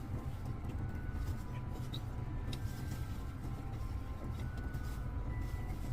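Steady low rumble, with a couple of faint clicks about two seconds in.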